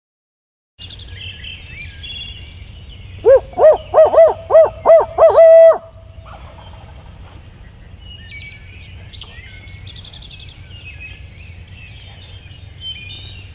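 Owl hooting: a loud run of about eight quick, rising-and-falling hoots that speed up and end in one drawn-out note. Songbirds chirp faintly in the background.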